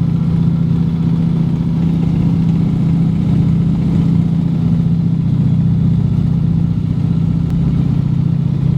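Junkers Ju 52 trimotor's three radial engines droning steadily in cruise flight.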